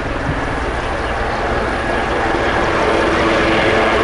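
Military display helicopter flying, with a steady rotor and turbine engine noise that grows gradually louder.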